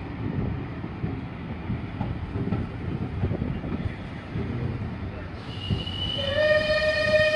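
Heritage railway carriage in motion: steady rumble and wheel clatter on the track. Near the end the locomotive's whistle starts, a hiss followed by one long steady note that grows loud.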